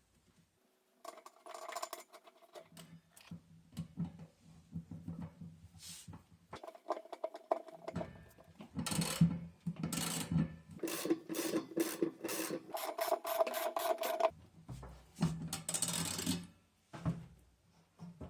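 Parts of a top-loading washing machine being handled and fitted together: irregular scraping, rubbing and knocking sounds.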